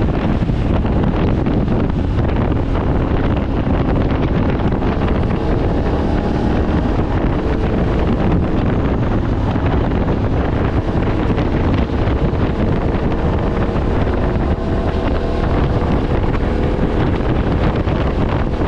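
Heavy wind buffeting on the microphone while riding a Yamaha Ténéré 700. The bike's parallel-twin engine can be heard faintly underneath, its pitch gliding up and down midway through.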